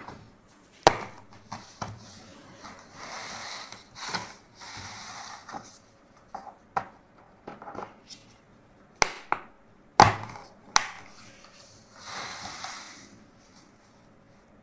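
Toys being handled: a scatter of sharp hard clicks and knocks, the loudest about a second in and about ten seconds in, between short spells of rustling.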